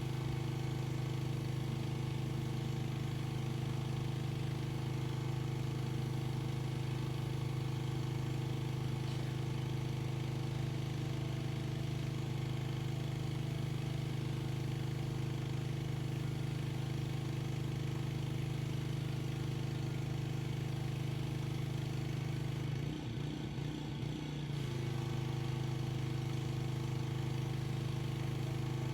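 Pressure washer's small engine running steadily under load. Its note wavers and dips briefly about 23 seconds in, then settles back to the same steady pitch.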